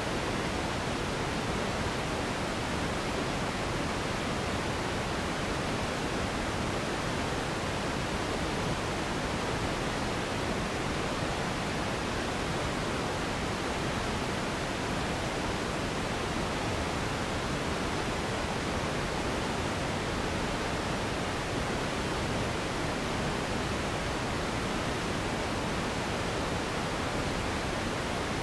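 Steady sleep noise: an even, unchanging hiss with its weight in the low and middle range and softer highs, like pink noise.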